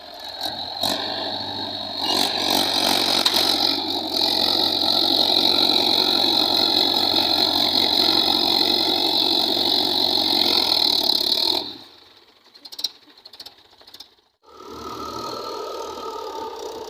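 Mahindra tractor engine running hard, loud and steady. It drops away suddenly about twelve seconds in, and a quieter running sound returns a couple of seconds later.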